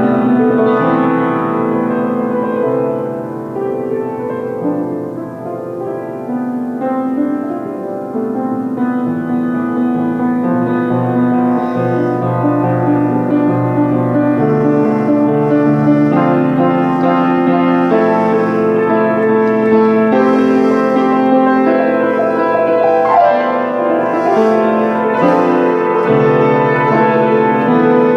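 Piano music: sustained chords and notes that change every second or two, dipping a little softer a few seconds in.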